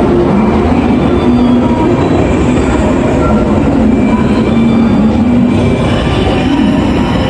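Electric multiple-unit train running, a loud steady rumble with a low hum whose pitch wavers slightly.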